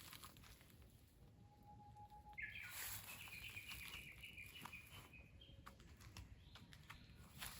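A songbird singing faintly: one long, low whistled note, then a quicker, higher warbling phrase lasting about three seconds.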